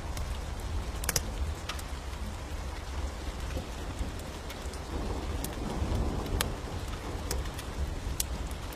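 Steady rain with a low rumble of thunder beneath it, and a wood fire giving sharp crackles every second or so.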